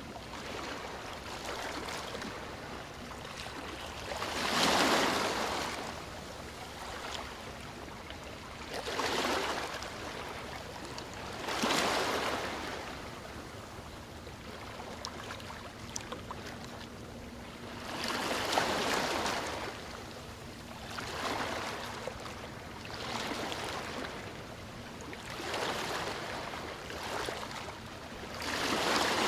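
Sea waves breaking on a shore: a steady wash of surf with a louder wave swelling and falling back every few seconds, about eight times.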